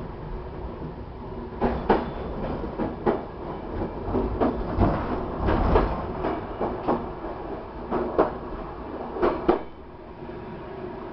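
Passenger train running along the track: a steady rumble of the wheels with sharp clacks, often in quick pairs, as the wheels cross rail joints and switches. It drops to a quieter rumble near the end.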